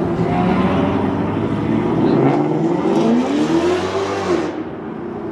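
Car engine running and accelerating, its pitch rising to a peak and falling away about four seconds in.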